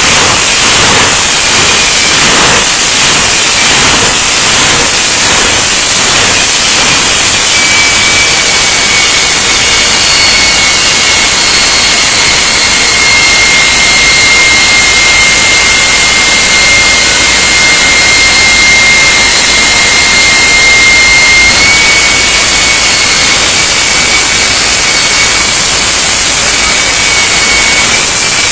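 Jet engine of a jet-powered semi truck running at high power: a very loud, steady roar with a whine held at one pitch, pulsing for the first few seconds.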